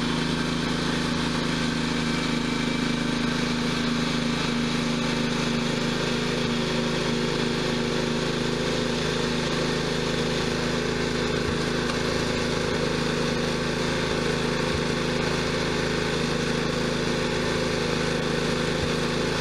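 John Deere tractor engine running at a steady speed, its pitch holding level throughout with no revving.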